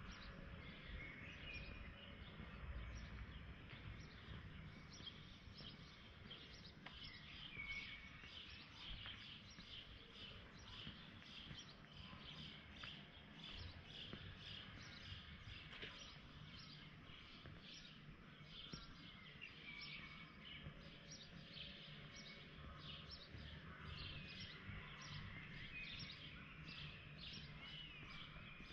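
Faint outdoor ambience: small birds chirping over and over, with a few short gliding calls, above a steady low rumble.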